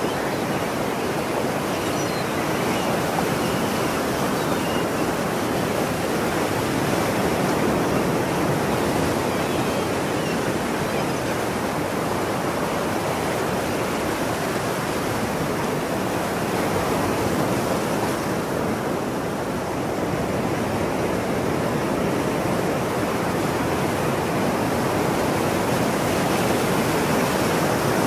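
Ocean surf washing continuously onto a shore, a steady rush of breaking water that swells and eases gently, with a slight lull about two-thirds of the way through.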